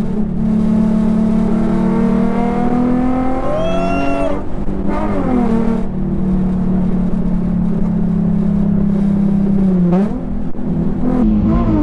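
Car engine pulling hard under acceleration, its pitch climbing, then dropping suddenly at a gear change about four and a half seconds in, with another short break and pickup near the end as the next gear goes in.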